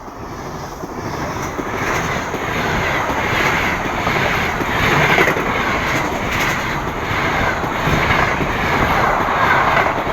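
Passenger train hauled by an EP2K electric locomotive rolling past: a loud, continuous rush of wheels and coaches that pulses at fairly regular intervals.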